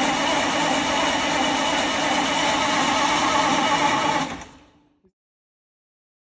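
1932 Bedford WLB coach's petrol engine running steadily, then fading out about four seconds in.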